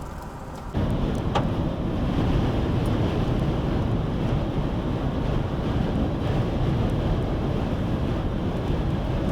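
High wind buffeting the microphone: a steady low rumbling rush that starts suddenly under a second in.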